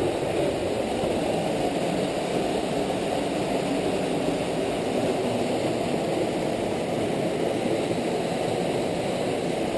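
Waterfall rushing in a small rocky gorge: a steady, even roar of falling water that holds level throughout.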